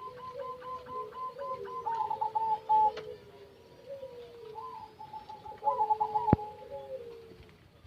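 Zebra doves (perkutut) cooing, several overlapping runs of quick, staccato notes. A single sharp click sounds about six seconds in.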